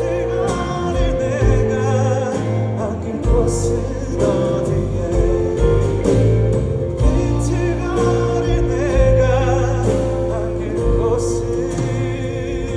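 Live band music with a male vocalist singing a ballad, held notes with vibrato over bass and drums.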